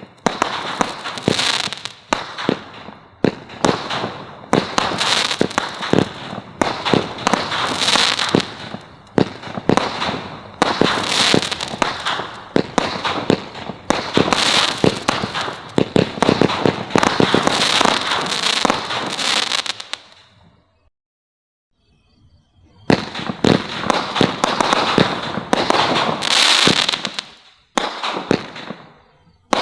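Consumer fireworks from a Brothers Pyrotechnics assortment going off: dense clusters of sharp pops and crackles about every second and a half. They stop for a couple of seconds about two-thirds of the way through, then start again.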